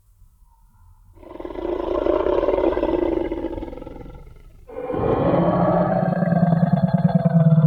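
Dinosaur (T. rex) roar sound effect: a deep, rough roar swells up about a second in and fades away. A second roar with a strong low note starts suddenly near the five-second mark and is still going at the end.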